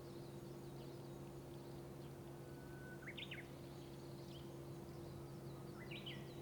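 A songbird sings two phrases, about three and six seconds in, each a long level whistle that leaps into quick higher notes, with fainter distant chirps, over a steady low hum.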